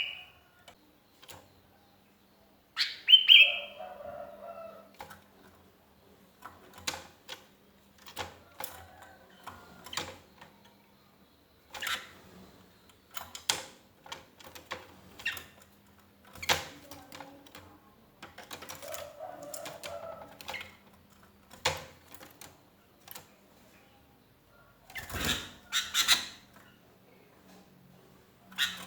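Sooty-headed bulbul giving short chirping calls scattered irregularly, with pauses between them.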